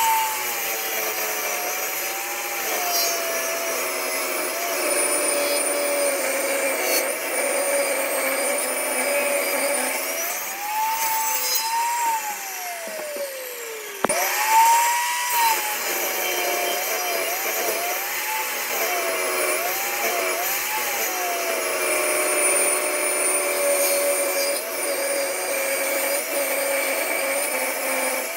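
Electric power tool motor cutting wood, its whine dropping in pitch as the cut bites and climbing back as the load eases, over and over. The sound breaks off abruptly about halfway through and picks up again at once.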